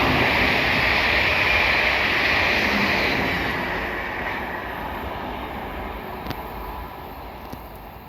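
Train passing through the station, a loud rushing of wheels on rail that fades away steadily from about three seconds in as it moves off.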